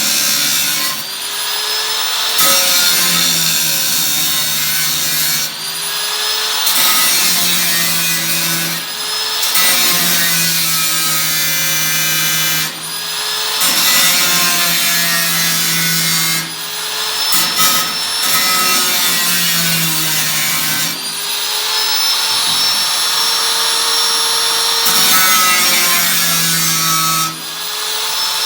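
Power saw cutting the thin sheet metal of an 18-litre square can, run in spells of a few seconds with brief stops between, its motor pitch dipping and rising with the load.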